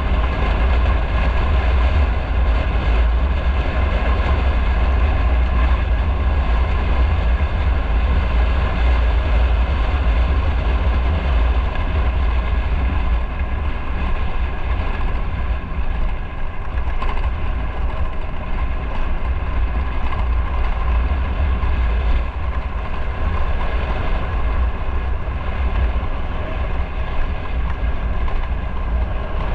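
Motorcycle underway on the road, its engine running steadily under a constant low rumble of riding noise.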